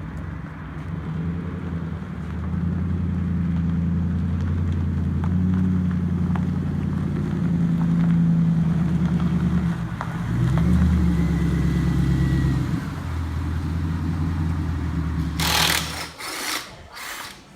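1999 Ford Mustang GT's stock 4.6-litre two-valve V8 running steadily, with a brief rev about ten seconds in. It stops near the end, followed by a few sharp knocks.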